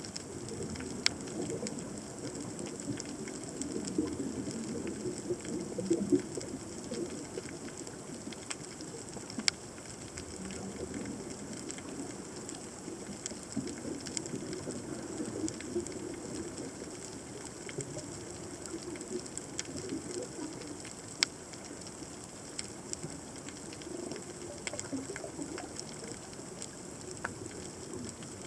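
Underwater reef soundscape: a crackle of sharp clicks, typical of snapping shrimp, a few much louder than the rest, over a constant low burbling water noise.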